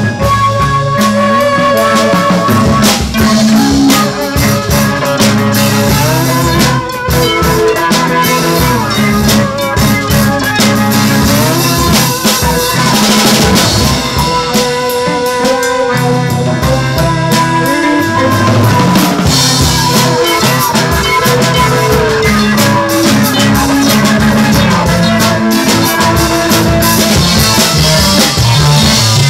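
Live band music: a drum kit played busily with snare and rimshot strokes, under sustained melodic lines from guitar and other instruments.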